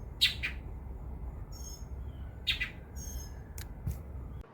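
Two birds, an adult and a young one, trading short calls. Sharp chirps come about a quarter second in and twice more, with fainter, higher thin calls between them, over a steady low rumble.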